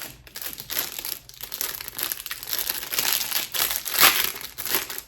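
Packaging crinkling and rustling in irregular bursts as it is handled, loudest about four seconds in.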